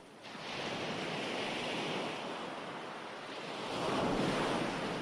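Ocean surf: waves washing in as a wide hiss that swells up just after the start, eases slightly, then rises again to a louder wash around four seconds before beginning to fade.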